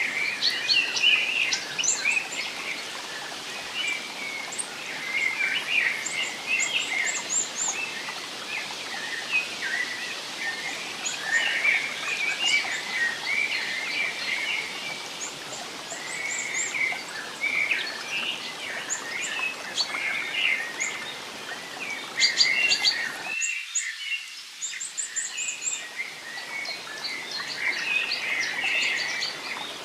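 Many small birds chirping and trilling over a steady background hiss. About three quarters of the way through, the low part of the hiss drops out suddenly and comes back over a couple of seconds.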